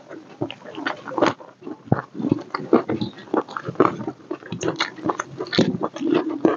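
Close, wet chewing and lip-smacking of a person eating a mouthful of rice and chicken curry by hand, with many irregular smacks, several a second.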